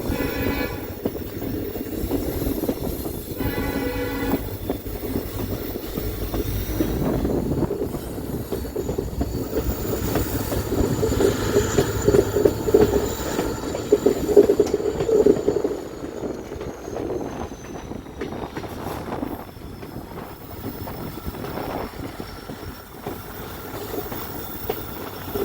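A train running on the rails, wheels clattering rhythmically, loudest about halfway through, with a thin high wheel squeal. A short train horn blast about three seconds in.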